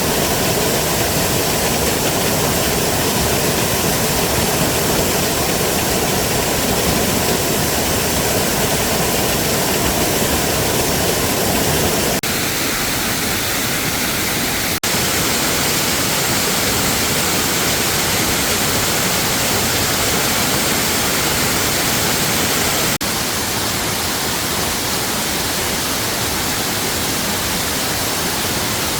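Steady rush of falling water from a waterfall, a loud even hiss that changes tone abruptly three times, about twelve, fifteen and twenty-three seconds in.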